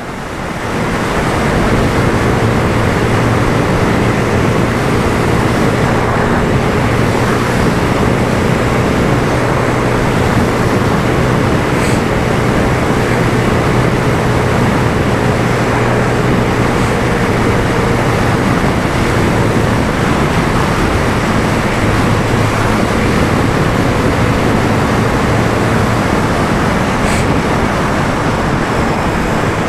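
Motorcycle riding at a steady pace: the engine hums evenly under a loud rush of wind and road noise.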